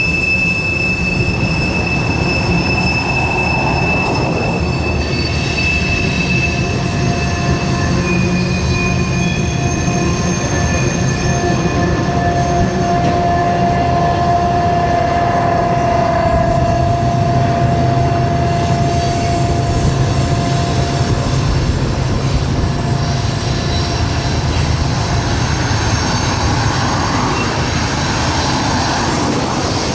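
Train cars rolling past with a continuous rumble and steady squealing tones from the wheels. A high squeal fades after about eight seconds, and a lower one swells through the middle.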